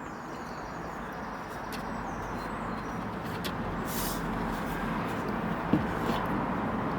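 Steady rumble of a passing vehicle, slowly getting louder. A few faint clicks and a sharper knock about six seconds in come from a nut being tightened on the feeder.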